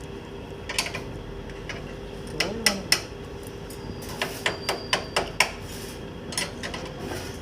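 Irregular sharp clicks and knocks, several in quick succession past the middle, over a steady hum from the bamboo-processing machine's motor.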